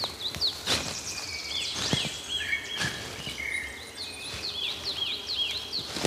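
Woodland birds singing: quick series of short, repeated high chirping notes from more than one bird, over a steady outdoor hiss. A few sharp clicks stand out louder, about a second in and again near two seconds.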